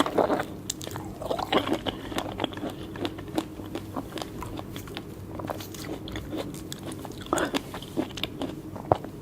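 A person biting and chewing juicy fresh fruit: wet crunches and mouth smacks, with louder bites at the start, about a second and a half in, and about seven seconds in.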